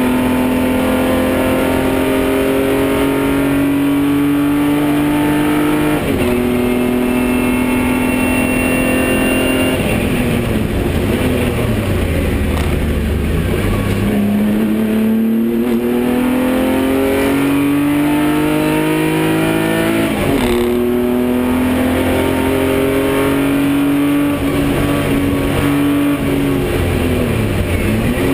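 BMW 325i race car's straight-six engine under hard driving, heard from inside the cabin: revs climb steadily and drop sharply at upshifts about six and twenty seconds in, fall away around ten seconds in, and climb again from about fourteen seconds; revs fall once more near the end.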